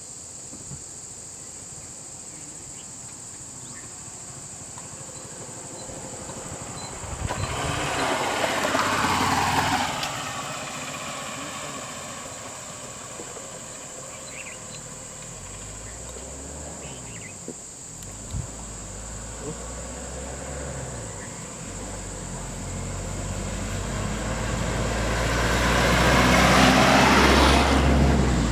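A motor vehicle passes by twice, each time swelling up and then fading, with a low engine hum on the second pass. Under it runs a steady high-pitched insect drone.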